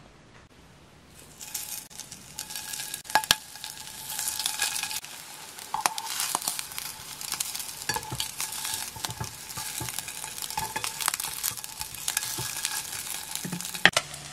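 Anchovy rice balls pan-frying in oil: sizzling and crackling that starts about a second in and keeps on, with a few sharp clicks of the spatula against the pan.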